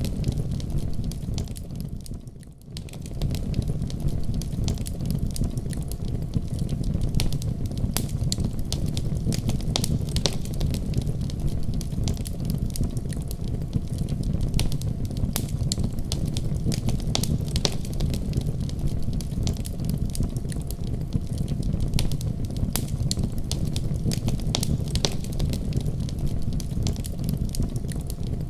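Wood fire in a fireplace burning with a steady low rumble and irregular sharp crackles and pops. The sound briefly fades down and comes back about two seconds in.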